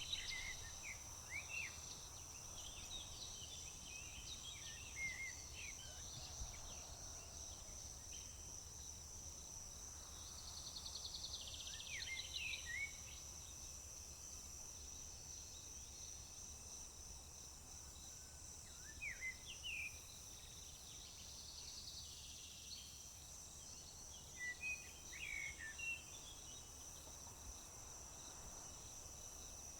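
Steady high-pitched trilling of crickets with no break, over which a songbird sings short phrases of quick notes sliding downward, several times a few seconds apart.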